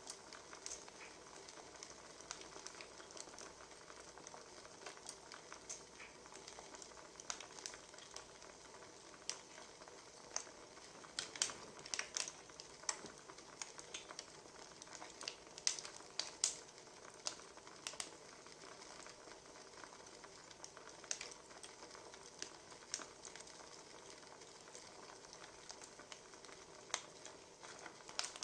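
Wood fire crackling: a soft steady hiss with irregular sharp pops and snaps from burning firewood.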